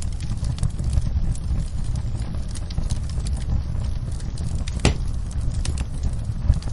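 Wood fire crackling in a fireplace: a steady low rumble of burning with many small crackles and pops, and one sharper pop about five seconds in.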